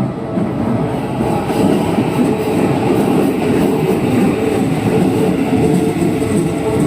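Keikyu electric train passing close by, a loud, steady rumble of wheels running on the rails.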